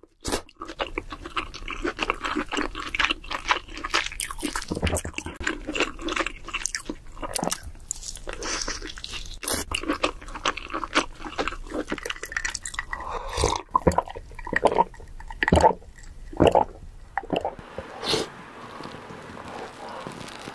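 Close-miked chewing of king crab leg meat: wet mouth sounds with many short clicks.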